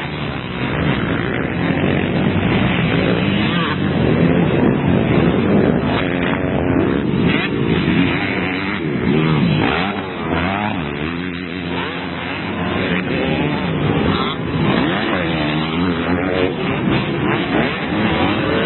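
Several motocross bikes racing, their engines revving up and falling off again and again as they overlap.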